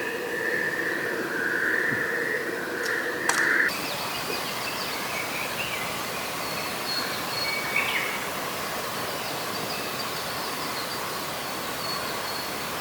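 Forest ambience: a steady chorus of calling creatures that changes abruptly about three and a half seconds in to a thinner, higher steady drone, with a short chirp near eight seconds.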